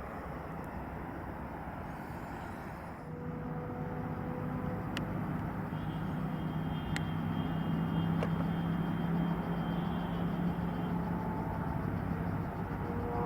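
Boeing 737-800's CFM56-7B jet engines heard at a distance as a broad rumble. From about three seconds in, a steady low hum comes in and the sound grows gradually louder.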